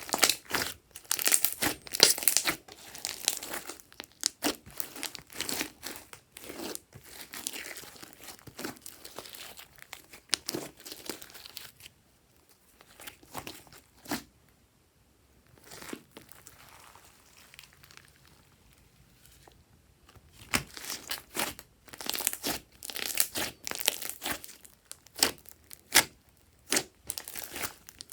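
Glossy slime being worked by hand, stretched, folded and pressed, giving sticky crackling and popping in bursts. It goes quieter for several seconds in the middle, then picks up again.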